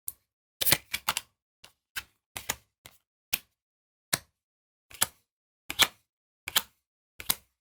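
Magic: The Gathering cards being flicked through one at a time, each giving a short, sharp snap. There are about fifteen snaps at irregular gaps of a fraction of a second.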